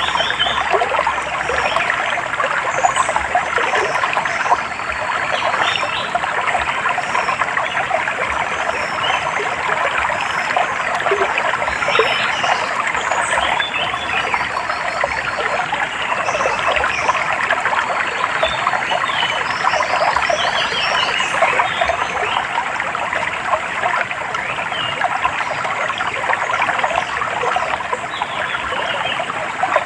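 A stream trickling steadily, with many small birds chirping over it.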